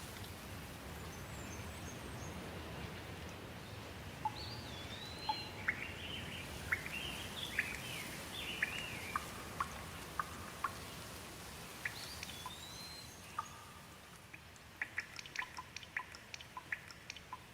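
Steady rain that thins out in the second half, with birds calling in short chirps and whistles that rise and fall through the middle. Near the end, as the rain fades, water drips in quick, irregular plinks.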